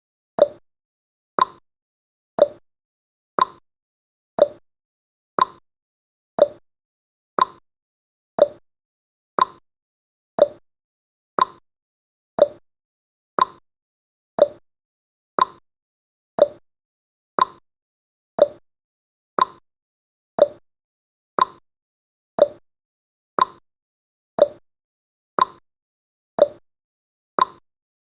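Countdown timer's ticking sound effect: a short, sharp click once a second, alternating between a lower and a higher note like a clock's tick-tock.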